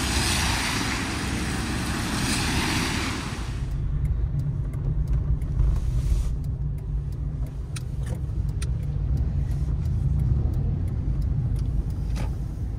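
Car driving on a wet road, heard from inside the vehicle. A loud broad hiss for about the first three and a half seconds gives way to a steady low road rumble with scattered faint ticks.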